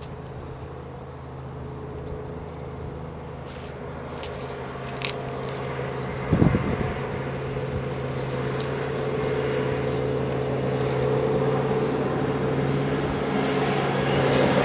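Diesel train engine running with a steady hum, growing louder as the train approaches. A short knock comes about six seconds in.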